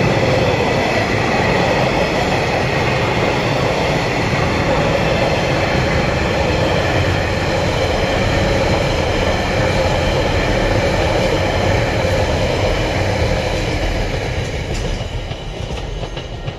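TasRail container and empty log freight train's wagons rolling past on steel wheels, a steady heavy rumble. It eases off near the end as the last wagon clears the crossing.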